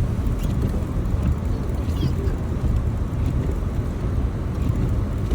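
Steady low road and tyre rumble heard inside a car's cabin while driving.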